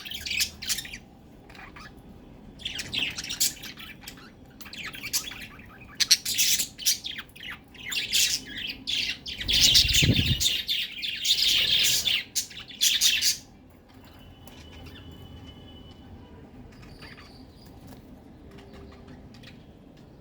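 Pet budgerigars chirping and chattering in quick bursts, falling quiet about two-thirds of the way through; a low thud sounds near the middle.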